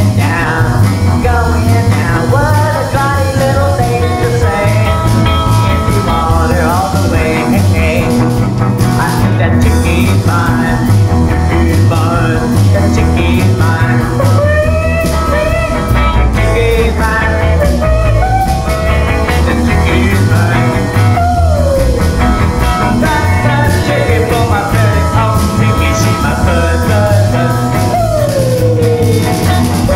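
Rock song played by a band of electric guitars, bass and drums, with a steady pulsing bass and a lead line that slides and bends in pitch.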